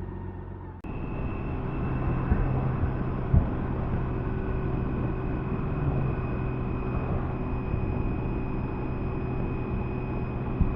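BMW K1600B's six-cylinder engine running steadily under way, with road and wind noise and a thin steady whine. The sound steps up suddenly a little under a second in, and there are two brief knocks, one a few seconds in and one near the end.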